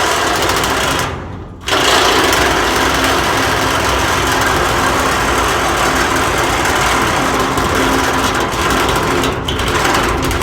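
Power tool cutting through the steel wall of a shipping container, running loud and steady, easing off briefly about a second in and then cutting on.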